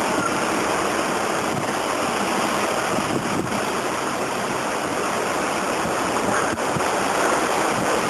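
Strong squall-line wind blowing hard and without a break, a steady rushing hiss.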